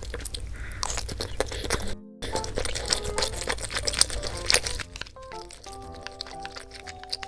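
Crunching bites and chewing of crisp fried food, most likely guobaorou's crispy batter, over light background music; the crunching dies away about five seconds in, leaving mostly the music.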